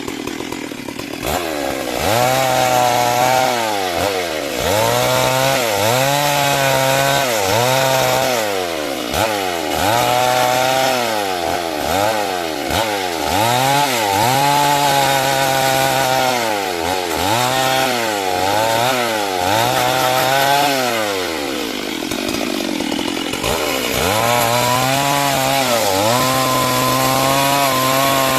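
Chainsaw cutting timber lengthwise into rafters, its engine pitch dipping and climbing again more than a dozen times as the bar works through the wood, then holding steady at high revs near the end.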